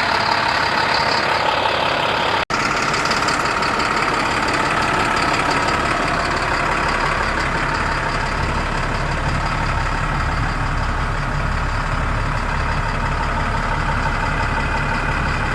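Diesel engine of an International 7400 truck idling steadily. A brief dropout about two and a half seconds in, after which the low, evenly pulsing engine sound is stronger.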